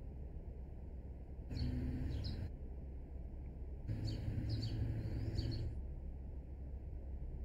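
Small birds chirping: a few quick falling chirps about one and a half seconds in, then a longer run of them from about four to six seconds, over a low steady background hum.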